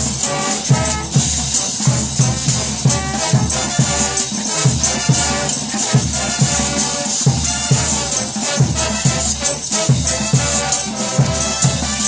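Cumbia played by a band: a steady beat of bass pulses with a shaker over it, and no singing.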